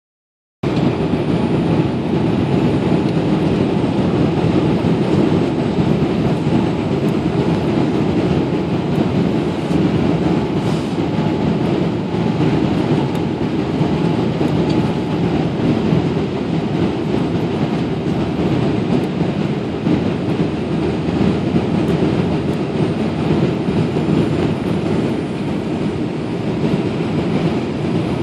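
Cabin noise inside a Boeing 787-8 airliner in flight on approach: a steady, even rumble of airflow and engines, heard from a window seat.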